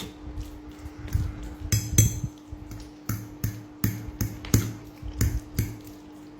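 Metal cutlery clinking and scraping against a plate while eating, about a dozen sharp clicks roughly two a second, with soft low thuds of eating between them and a steady low hum underneath.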